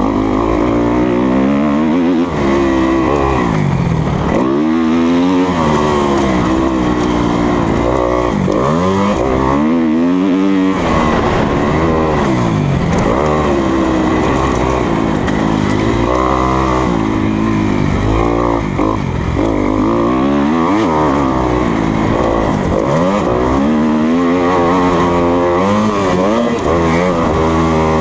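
2020 Kawasaki KX250F's single-cylinder four-stroke engine being ridden hard, its pitch rising and falling over and over as the throttle is opened and chopped and the gears change.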